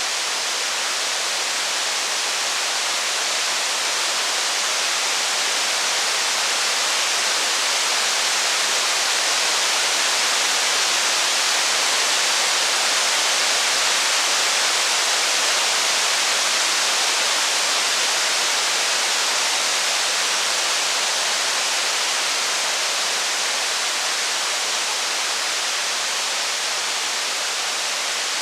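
Steady rain hiss, an even wash of noise with no separate drops, crackles or thunder, swelling slightly midway and easing again.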